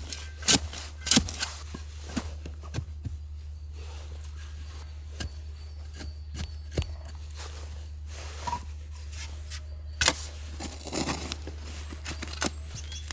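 A few sharp knocks in the first second or so, then scattered small clicks and scrapes, with a louder burst of knocks and rustling near the end.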